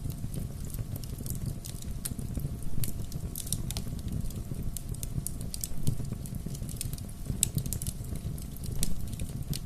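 Bonfire crackling: irregular sharp pops and snaps over a steady low rumble of flames.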